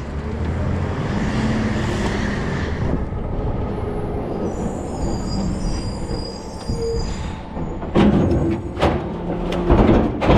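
Rear-loader garbage truck running, with a high squeal in the middle and several loud metal clanks near the end.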